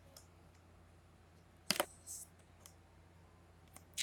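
A few scattered sharp clicks or taps, the loudest a quick double click just before the middle followed by a short hiss, over a faint steady low hum.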